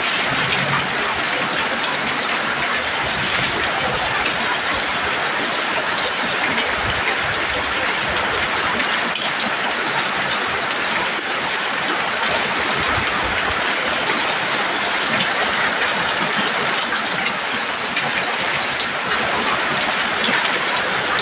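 Heavy rain falling steadily on a roof: an even hiss with faint scattered drop ticks.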